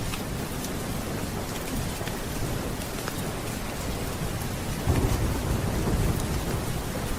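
Steady heavy rain with a roll of low thunder that swells about five seconds in. Scattered sharp ticks sound over the rain.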